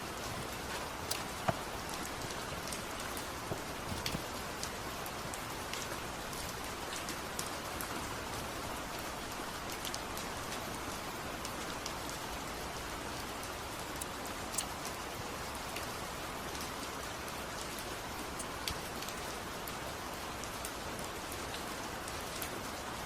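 Steady rain falling, with scattered sharper drops tapping throughout.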